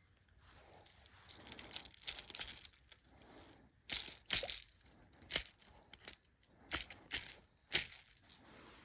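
A Rattle Trap lipless crankbait rattling in about six sharp, brief bursts, shaken by a hooked bass.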